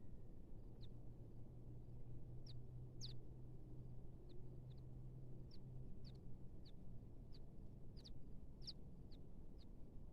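Small bird giving short, sharp, high chirps, a little more than one a second, over a low steady hum.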